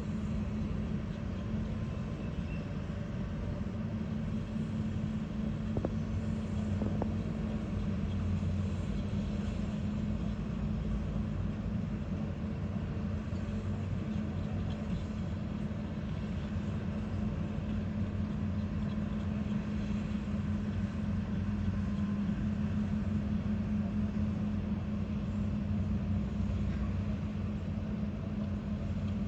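Steady low hum of running engines, from heavy machinery or road vehicles, holding an even pitch without revving.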